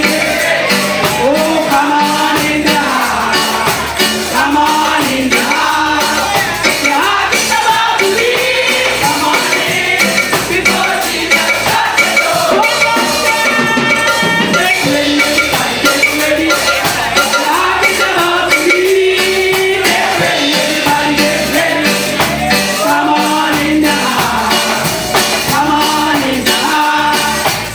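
Church choir singing a gospel song over loud instrumental accompaniment with a steady percussion beat.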